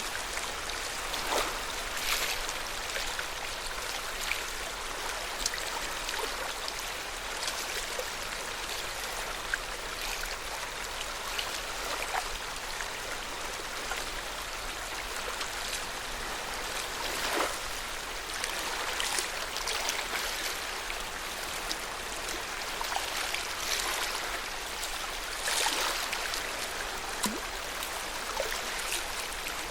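Water of Lake Yamanaka lapping and splashing: an even rush of water broken by frequent small, irregular splashes.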